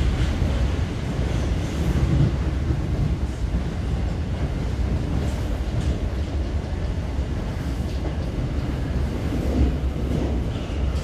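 Steady running noise of a Class 455 electric multiple unit at speed, heard from inside the passenger saloon: a continuous low rumble of wheels on rail.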